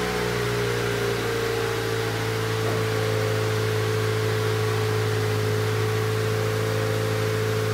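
2003 Acura RSX's four-cylinder engine idling on a cold start, heard through DC headers and an HKS muffler with the resonator removed. The idle speed dips slightly at the start, then holds steady.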